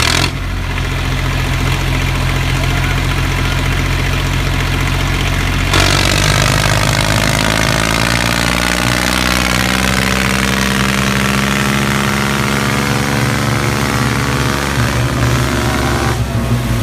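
Tractor diesel engine running steadily, then picking up revs about six seconds in and working harder with its pitch wandering, before dropping back near the end.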